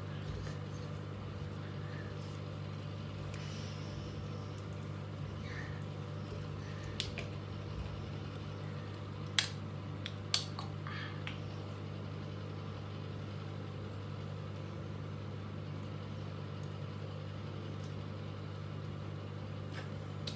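Steady low hum of a small room, with a few faint rustles and two sharp clicks about halfway through.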